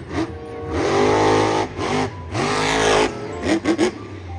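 Car engine revving sound, rising and falling in pitch twice, followed by a few short sharp clicks near the end.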